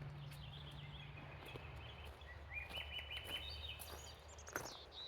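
A songbird singing thin, clear whistled notes, with a run of notes stepping upward in pitch through the middle, over a faint steady low rumble. There is a sharp click near the end.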